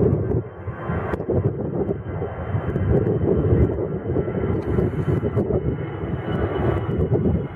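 Jet airliner's engines at take-off power: a continuous low, uneven rumble with a faint steady whine above it.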